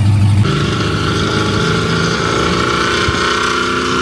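A vehicle engine running at steady revs, its pitch unchanging; the sound cuts in abruptly about half a second in.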